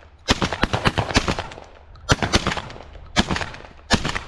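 Gunfire from several hunters shooting at flying pigeons: a rapid burst of about half a dozen overlapping shots in the first second, then four more spaced out over the next three seconds.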